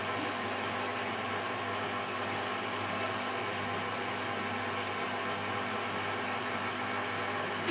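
Beko WM74165W washing machine running on its 90°C quick wash, a steady, unchanging motor hum.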